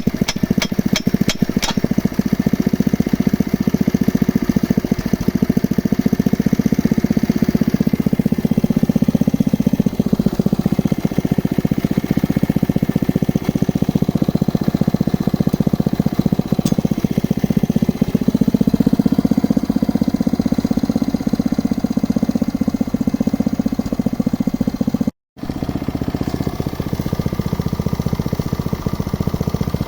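Engine of a geological exploration drilling rig running steadily, with a quick run of clicks in the first two seconds and a momentary break in the sound about 25 seconds in.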